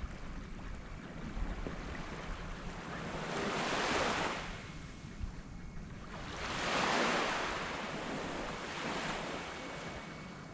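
Small waves breaking and washing up a sand beach. Two surges of rushing water build and fade about three seconds apart, with a fainter third one near the end.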